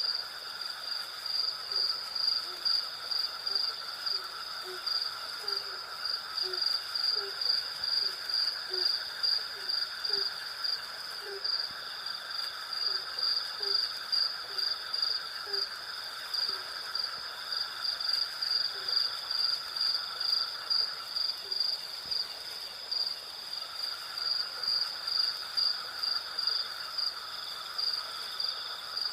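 Night insect chorus of crickets: a steady high trill that pulses several times a second, with a second, lower buzzing band that drops out for a couple of seconds past the middle. Through the first half a short, low hoot-like note repeats about twice a second, then stops.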